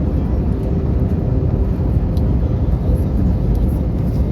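Airbus A321neo cabin noise heard from a passenger seat: a steady low rumble of the engines and airflow, with a faint hum.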